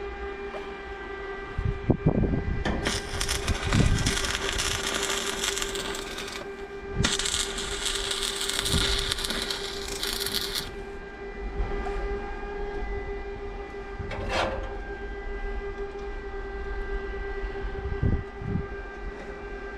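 Electric arc welding: two bursts of crackling arc, each about three and a half seconds, the second starting just after the first stops, as braces are tack-welded to steel fence posts. A steady hum runs underneath, with a few knocks at the start of each burst and again near the end.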